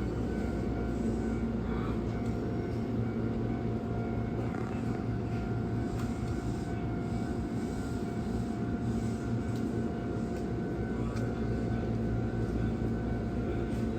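Hankyu electric train at the station, a steady low rumble with a constant electrical hum and no change in pitch or level.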